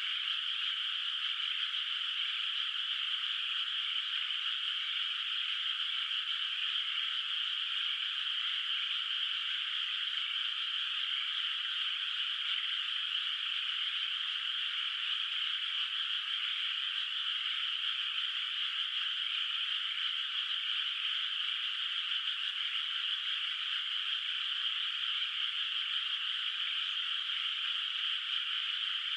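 Dense chorus of many frogs calling at once from a flooded rice paddy. The calls blur into a steady, high-pitched trilling wash with no pauses.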